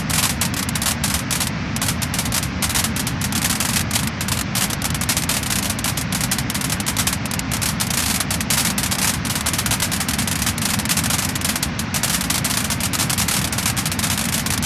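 Wood-burning fire crackling and popping steadily: dense, rapid crackles over a low rushing hiss of the flames.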